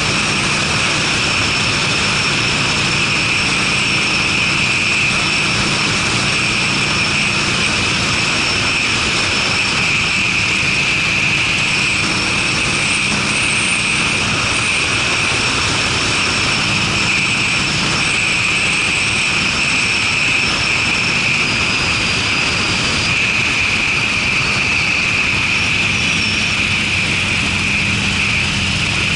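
Harley-Davidson Sportster's air-cooled V-twin running steadily at cruising speed through Screamin' Eagle aftermarket mufflers, with a deep exhaust note under a steady rush of wind and road noise.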